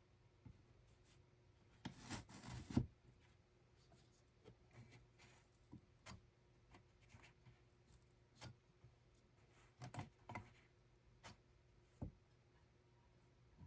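Quiet handwork sounds: a brief rubbing, scraping stretch about two seconds in, then scattered light clicks and taps.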